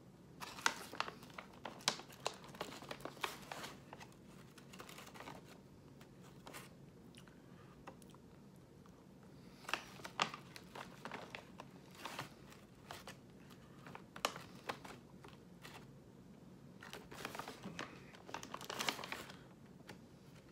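Chewing crunchy chocolate-covered pretzel and graham snack mix, in several bouts of sharp crackles, mixed with crinkling of the plastic snack packaging.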